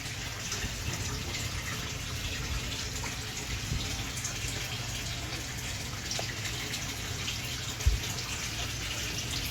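Water running steadily into a koi pond, with a low steady hum underneath. A single low thump comes about eight seconds in.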